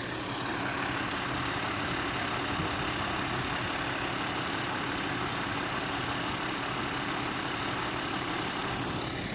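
A heavy fire truck's diesel engine running steadily, a constant low hum under a wide, even rumble.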